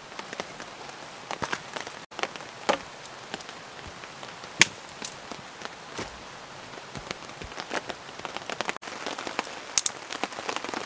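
Steady rain falling, with scattered sharp taps and clicks throughout. There are two brief dropouts in the sound, about two seconds in and near the end.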